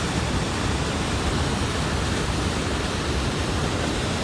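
Niagara Falls' water pouring and splashing, a steady, even rushing noise.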